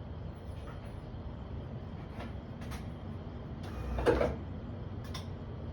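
A few short clicks and one louder clunk about four seconds in, over a steady low hum, with no engine cranking: a Mazda Miata in a no-crank, no-start condition.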